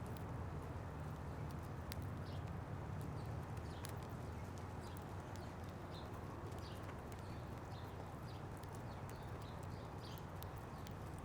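Birds feeding at a feeder: many sharp clicks of beaks pecking and seed being knocked about, mixed with frequent short chirps, over a steady low rumble.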